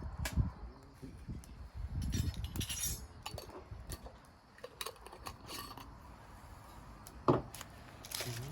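Light metallic clinks and scattered clicks from metal camp gear being handled, with one sharp knock about seven seconds in.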